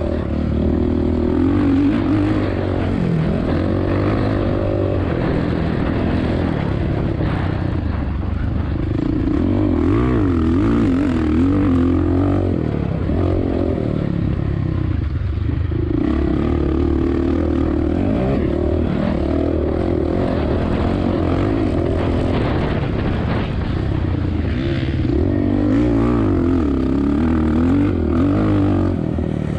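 2007 Suzuki RM-Z450's single-cylinder four-stroke engine racing on a motocross track, its pitch rising and falling repeatedly as the throttle is opened and shut through the sections.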